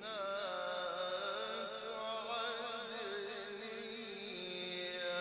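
A male Qur'an reciter chanting in the melodic mujawwad style, drawing out a long, wavering, ornamented phrase that settles onto a steadier held note near the end. A faint steady high-pitched whine runs underneath.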